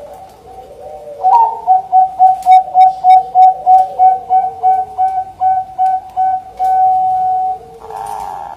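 Zebra dove (perkutut) cooing: a rapid run of short, clipped notes on one steady pitch, about four a second, ending in one longer held note. A fainter, wavering coo sounds underneath.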